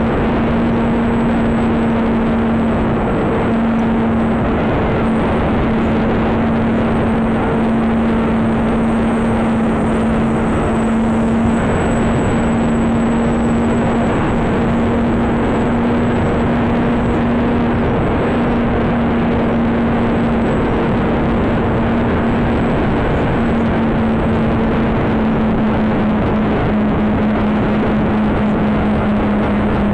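Small RC plane's twin brushless electric motors running at steady throttle in flight, a steady hum that sags slightly in pitch near the end, under heavy wind noise rushing over the microphone.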